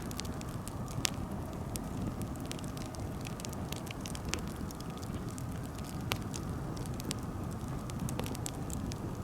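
Campfire burning: a steady low rumble of flames with frequent sharp crackles and pops from the burning wood, a louder pop about a second in.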